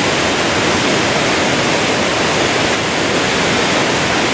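Waterfall in full spring flow, a loud, steady rush of water.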